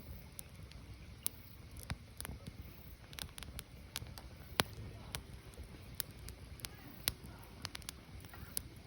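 Burning firewood crackling: irregular sharp pops and snaps over a low steady rumble of the fire, the loudest pop about halfway through.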